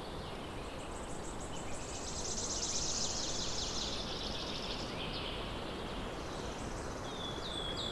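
Outdoor nature ambience of small birds singing over a steady hiss: a long, fast, high trill for the first few seconds, then a series of short, quick chirps near the end.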